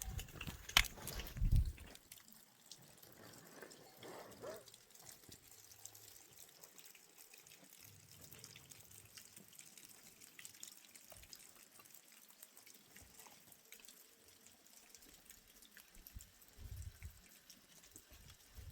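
Water dripping: faint, scattered drops. In the first two seconds there is a sharp knock and a short low rumble.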